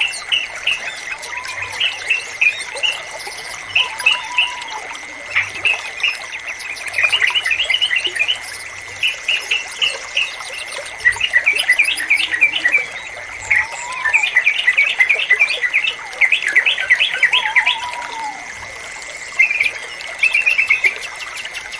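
Yellow-vented bulbul (trucukan) singing in repeated bursts of quick, bubbly chirps, over a steady thin high tone. A few short, lower rising-and-falling whistles come in between the bursts.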